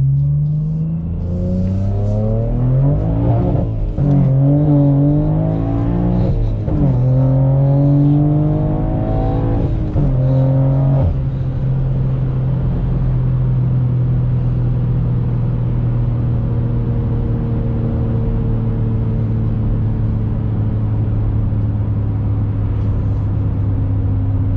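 2021 BMW M3's twin-turbo S58 straight-six through a valveless, catless race exhaust, pulling hard through the gears of a manual gearbox. The revs rise three times with a sudden drop at each upshift, then the engine settles into a steady cruise, its note sinking slowly.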